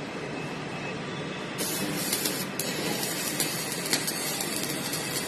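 Plate rolling machine running as it bends a steel plate, a steady mechanical noise. A brighter hiss sets in about a second and a half in, with scattered sharp clicks.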